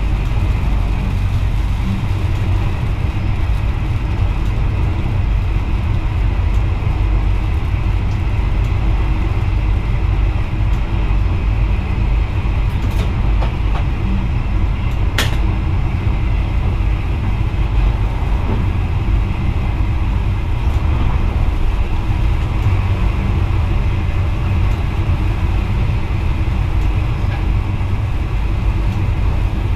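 Steady low rumble of a VIRM double-deck electric train running along the track, heard from inside the driver's cab. Two sharp clicks come near the middle, the second louder.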